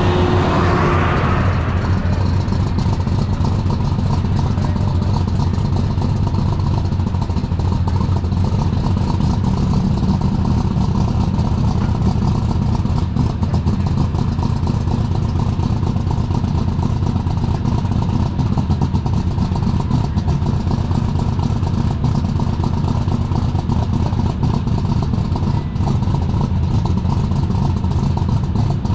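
Superstock pulling tractor's diesel engine running loud and steady, its pitch holding roughly level.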